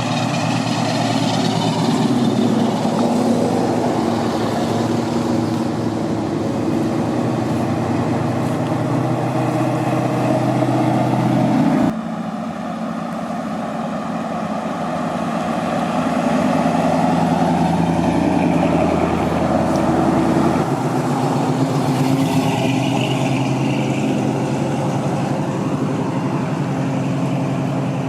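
Car engines running, with an abrupt change in the sound about twelve seconds in.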